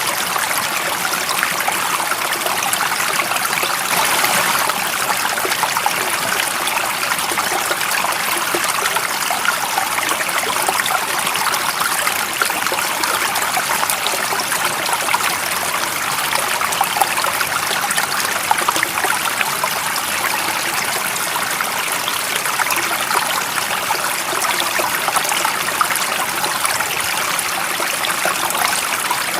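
Running water of a stream: a steady, unbroken rush, mostly hiss with little low rumble.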